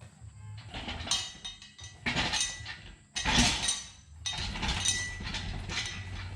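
Metal parts and tools clinking and clattering as they are handled and moved, in several irregular bursts.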